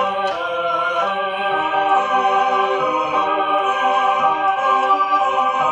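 Mellotron M400 playing its tape choir sound: sustained chords of recorded voices, several notes held at once and changing a few times.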